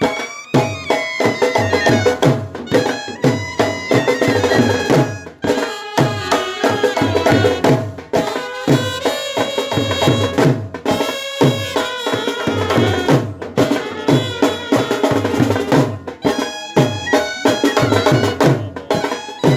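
Brass band playing a melody on wind instruments over a steady, repeating drum beat.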